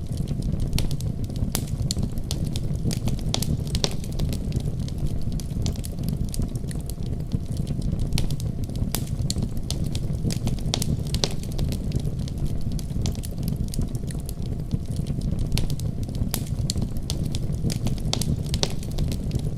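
Wood fire crackling, with frequent sharp irregular pops, over a steady deep rumble of a heavy snowstorm.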